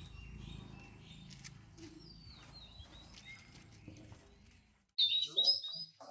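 Birds chirping over a low background hum, with a louder burst of high chirping calls about five seconds in, after a brief drop-out.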